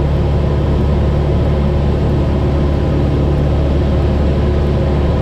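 Cessna 172's piston engine and propeller heard from inside the cabin, a steady low drone with an even hiss over it, holding constant in cruise.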